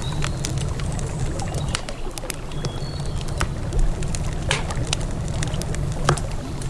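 Wood fire crackling, with irregular sharp pops and snaps over the steady low rush of a river. A couple of brief high whistling peeps come in near the start and about three seconds in.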